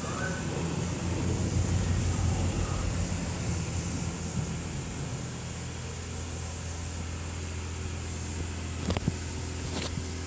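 Car engine running at low speed, heard from inside the cabin as a steady low hum. Two brief clicks sound near the end.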